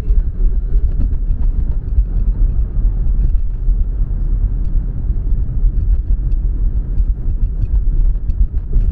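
Steady low road rumble of a car being driven.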